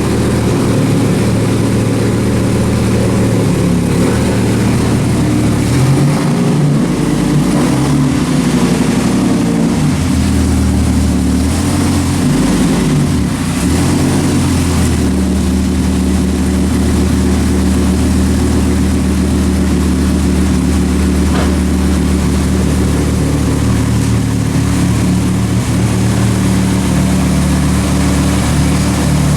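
The turbocharged 8.3-litre V10 of a 2004 Dodge Ram SRT-10 running. Its note rises and falls with light revving between about 6 and 15 seconds in, then settles to a steady idle.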